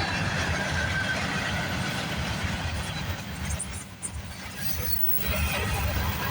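CSX freight train rolling past, a steady rumble of wheels on the rails that dips briefly about four seconds in.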